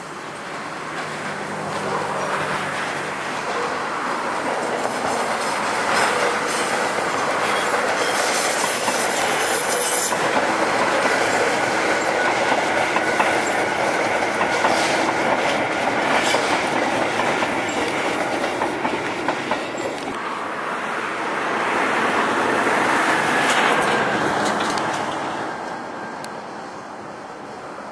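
Tobu electric trains passing over curved station track: a steady rumble of wheels with clicking over rail joints, and thin high wheel squeal. It builds over the first few seconds, swells again a few seconds before the end, then fades.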